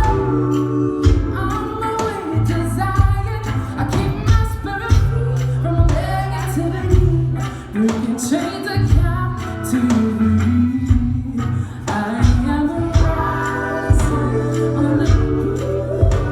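Female soul singer singing live over a band, with a steady drum beat and bass line under the voice.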